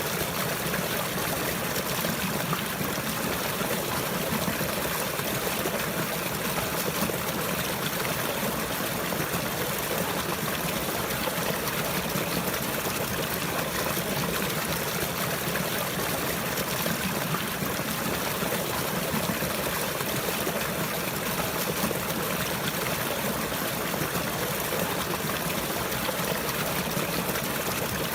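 Running water trickling steadily, an even, unbroken wash of flowing water.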